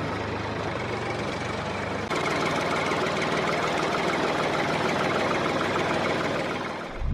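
Small motor of a DIY model tractor running steadily, getting louder about two seconds in and fading out near the end.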